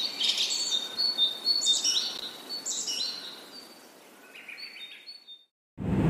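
Birds chirping and tweeting: a run of short, high chirps that fade out about five seconds in.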